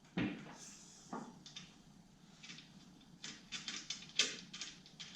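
Tools and metal engine parts being handled on a workbench: a couple of soft thuds, then a run of short, irregular clicks and knocks.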